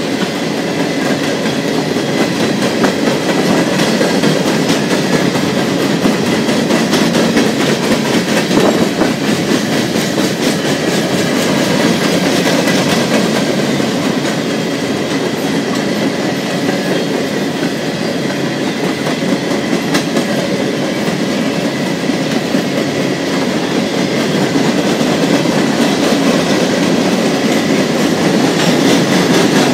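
Empty coal train cars rolling past: a steady rumble of steel wheels on rail, with rapid clicking of the wheels over the rail joints.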